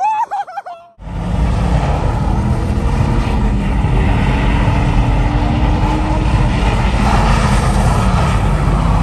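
A few shouted voices that cut off about a second in, then a Ford Mustang's engine held at steady high revs while it spins its rear tyres doing donuts, a loud unbroken drone.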